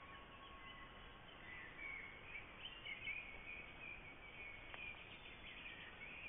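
Faint outdoor ambience with a low hiss and a few brief, high bird chirps scattered through it, mostly from about a second and a half in.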